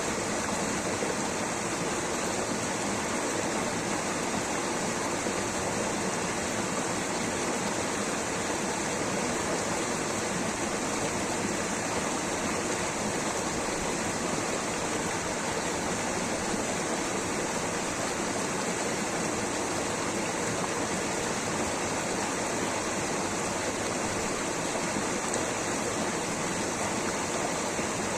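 Water rushing steadily, an even, unbroken rush that does not change.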